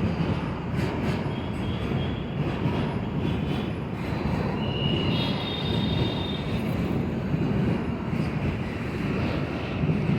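Metro train running along the track with a steady rumble, and a thin high wheel squeal rising over it near the middle.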